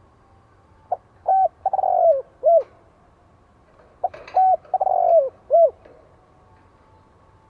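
Spotted dove cooing: two calls about three seconds apart, each a short coo, a longer falling coo and a short closing coo.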